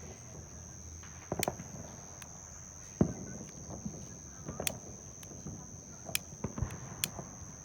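A few scattered sharp clicks and knocks, the loudest about three seconds in, over a faint steady high-pitched tone.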